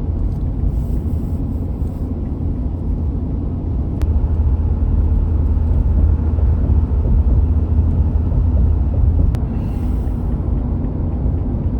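Steady low rumble of a moving vehicle, with no clear rhythm or pitch changes, cutting off abruptly at the end.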